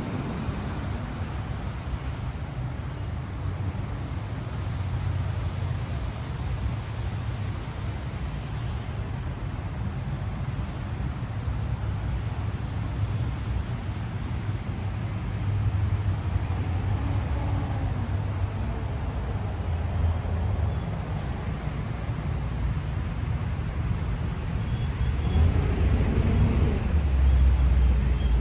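City street ambience: a steady low traffic rumble with a bird's short, high, falling chirps repeating every second or two. Near the end a motor vehicle approaches, its engine rising in pitch and getting louder.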